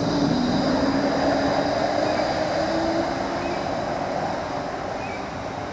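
Melbourne light-rail tram running along the track: a steady rumble of wheels on rail with a motor hum that shifts in pitch, slowly getting quieter.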